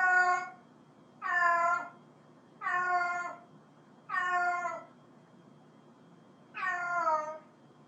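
Cat meowing repeatedly: five drawn-out meows, each falling in pitch at its end, roughly a second or so apart, with a longer pause before the last one.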